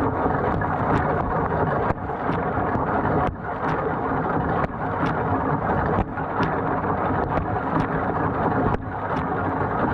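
GE GDT655SSJ0SS dishwasher running a wash: a steady rush of spraying water and the pump, broken by a brief dip about every second and a half. The lower spray arm is not spinning; the uploader found the cause to be the orange ball valve in the lower arm's nozzle, stuck with gunk.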